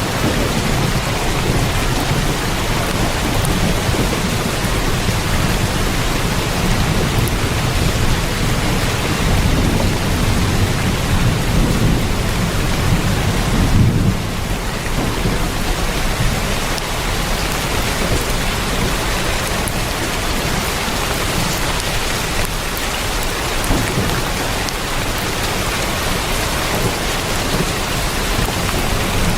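Heavy rain falling on a tin roof, a steady hiss. A low thunder rumble swells under it and peaks about halfway through, then fades.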